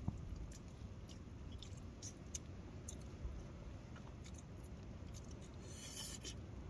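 A person chewing a mouthful of noodles, with small scattered clicks, over a soft low rumble. A short hissing rustle comes near the end.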